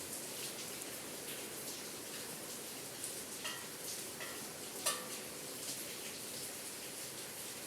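Steady rain hissing and pattering, with scattered drips. Three brief metallic pings come about halfway through, the last and loudest a sharp tap followed by a short ring.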